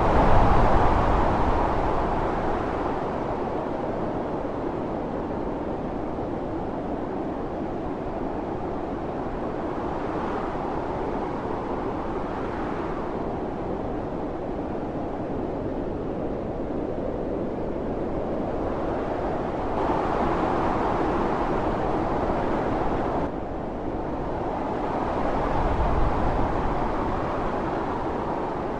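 Snowstorm wind howling in a steady rush, gusting harder at the start and again about twenty and twenty-six seconds in, with a sudden brief drop in level a little after twenty-three seconds.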